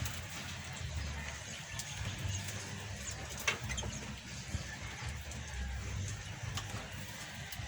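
Scattered faint chirps from small pet birds over a steady low rumble, with one brief sharper call about three and a half seconds in.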